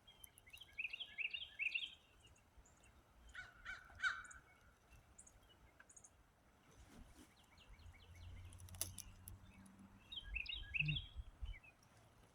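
Wild birds calling: a quick burst of rapid high notes about half a second in and again near the end, with a harsher call in between. A low rumble runs through the later part.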